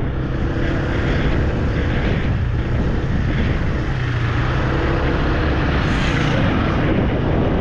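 Small motorbike engine running steadily while being ridden, with road and wind noise.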